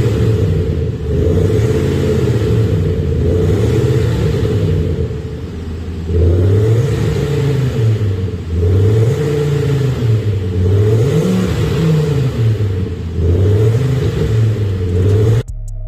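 BMW X6 40d revved over and over through an Xhaust active sound system, its electronic exhaust note set to sound like a V8, the pitch rising and falling about once every second and a half. Near the end it cuts suddenly to music with a ticking beat.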